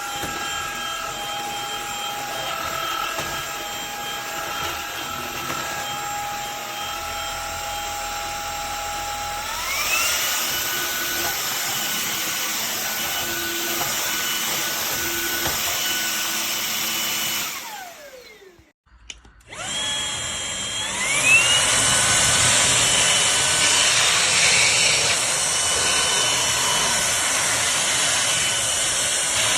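A cordless stick vacuum's brushless motor runs with a steady whine and steps up to a higher pitch about ten seconds in. It winds down and stops around seventeen seconds, then spins back up with a rising whine about twenty seconds in and keeps running with more airflow hiss.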